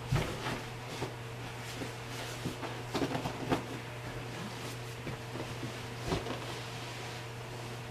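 Steady hum of a kitchen exhaust fan, with scattered knocks and clatter of kitchen work: a sharp knock right at the start, a cluster around three seconds in and another near six seconds.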